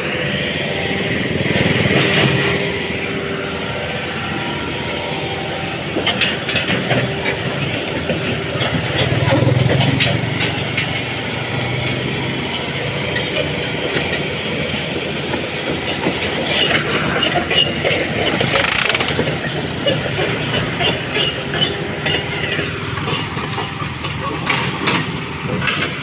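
Excavator's diesel engine running steadily under load, with rapid metallic clanks and rattles from the machine working, thickest past the middle.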